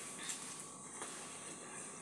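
Person eating pomegranate seeds: soft crunching and wet mouth sounds, with two small clicks about a third of a second and a second in, over a faint steady hiss.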